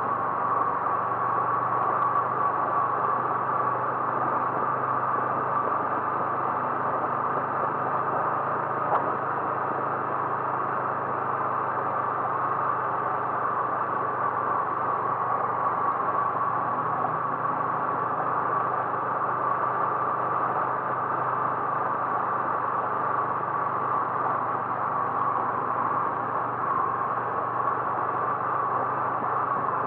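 A car driving at a steady pace: a constant hum of engine and road noise with no change in speed.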